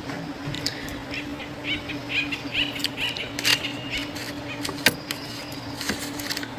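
Birds chirping in a quick series of short calls, with a few light clicks and a steady low hum underneath.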